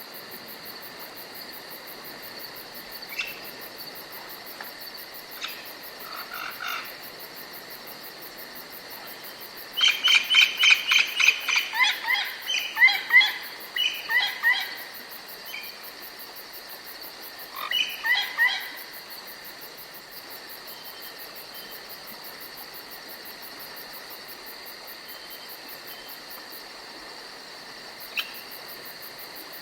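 Forest night-time wildlife ambience: a steady high insect drone throughout, with a run of loud, rapidly repeated chirping calls lasting about five seconds a third of the way in, a shorter burst of the same calls a little later, and a few single chirps.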